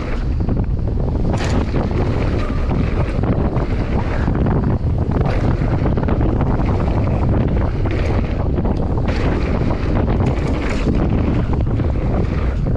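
Heavy wind buffeting on the microphone of a mountain bike rider's camera at speed, with steady rumble from the bike and a few short sharp bursts of noise scattered through.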